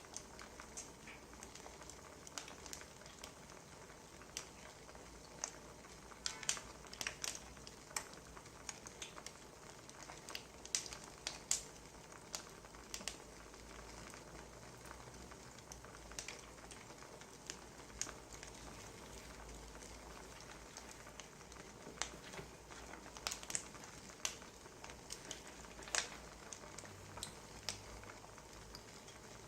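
Wood fire crackling, with faint irregular pops and snaps over a low steady hiss.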